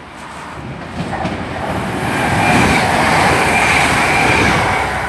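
A diesel multiple-unit passenger train passing through the station at speed. The wheel and rail noise builds to a peak about halfway and then eases off, with a steady high whine over it at its loudest.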